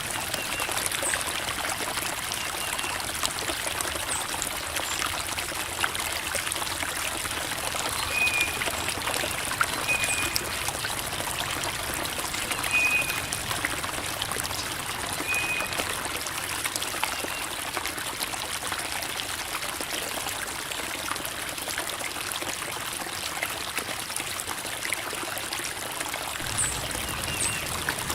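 Creek water babbling and trickling over rocks, a steady even rush. A few brief high-pitched notes sound over it about a third and halfway through.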